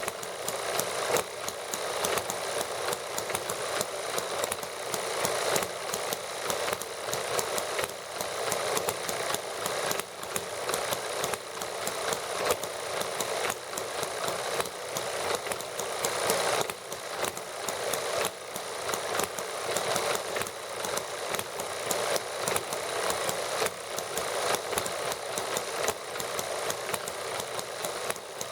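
Several small model gasoline engines running together on lighter fluid, warming up: a steady, fast run of clicking firing strokes.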